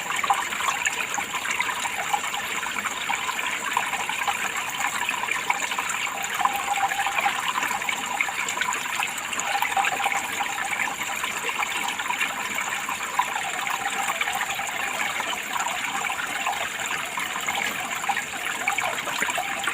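Water running and trickling steadily, a continuous even flow with no pauses or changes.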